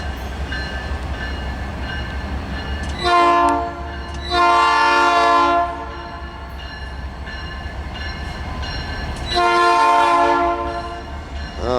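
Norfolk Southern diesel locomotive sounding its multi-chime air horn three times, a short blast then two longer ones, over the steady low rumble of the slowly approaching train.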